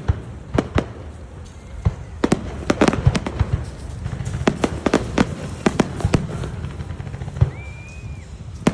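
Fireworks going off: a dense, irregular run of sharp bangs and crackles over a low rumble, with a short high whistle about seven and a half seconds in.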